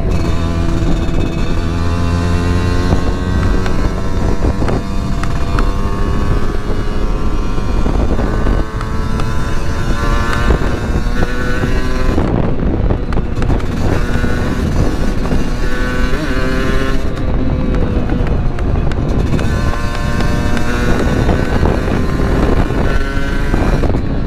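Kawasaki Ninja SS 150's single-cylinder two-stroke engine running under way, its pitch repeatedly rising as it revs up and dropping as the throttle eases off.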